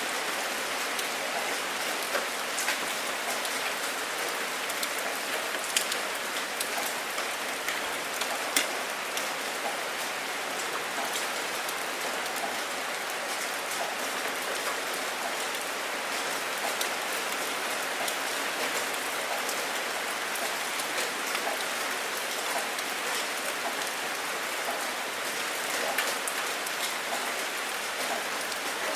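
Steady rain falling on a surface, an even hiss with many distinct drops ticking through it and a few louder drop hits.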